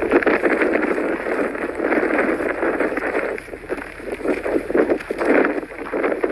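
Gusty blizzard wind blowing, rising and falling in strength, with a dip about halfway through.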